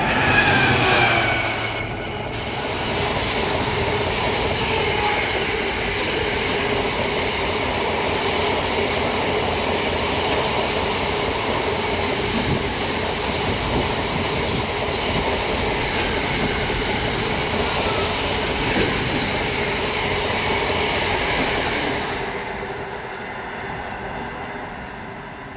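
A Class 66 diesel freight locomotive passes at speed, its engine note sliding down as it goes by in the first second or two. A long train of freight wagons then rolls past with a steady rumble and rattle of wheels on rail, which fades away after about 22 seconds as the train recedes.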